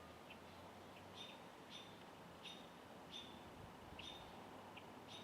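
A songbird giving faint, short chip notes, repeated about once or twice a second.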